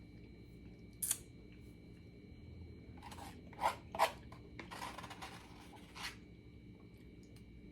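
Close-up eating sounds: a sharp click about a second in, then a few short scrapes and crunches between about three and six seconds in.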